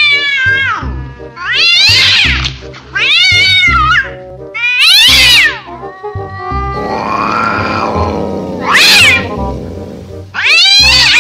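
Angry cats yowling: about seven loud calls that rise and fall in pitch, a second or two apart, with a lower, longer one in the middle. Background music with a steady beat plays underneath.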